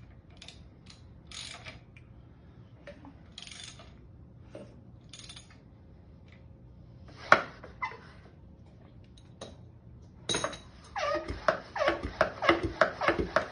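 Scattered metallic clicks and clinks of tools and priming gear being handled at an engine, with one sharp knock about seven seconds in. From about ten seconds a quick run of loud clicking strokes, several a second, follows.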